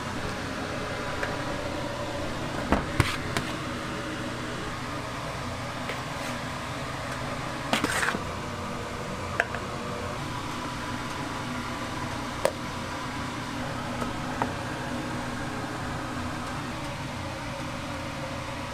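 A steady machine hum with hiss, broken by a few sharp clicks and knocks; the loudest come about three seconds in and again around eight seconds in.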